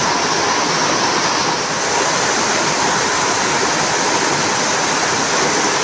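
Steady, loud rushing of flowing water.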